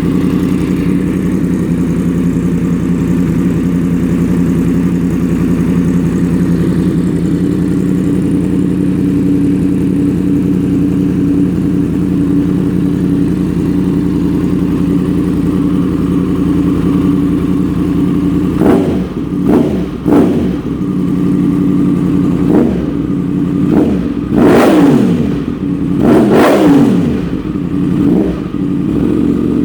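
Yamaha FZ-10's crossplane inline-four, just started, idling loudly through an Austin Racing aftermarket exhaust, then revved in a series of short throttle blips over the last ten seconds or so.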